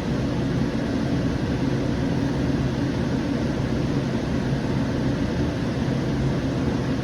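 Siemens S700 light rail car running between stations, heard from inside the car: a steady rumble with a constant low hum.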